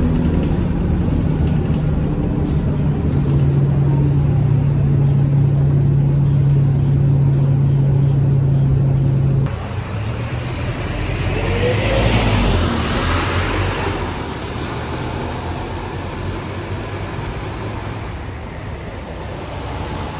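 Scania K230UB single-deck bus running with a steady low engine drone. About halfway through the sound changes abruptly, and a rising high whine comes in with a swell of engine and road noise that then slowly fades.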